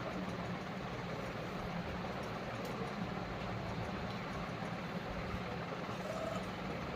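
Electric blower running steadily: a constant motor hum under an even rush of air.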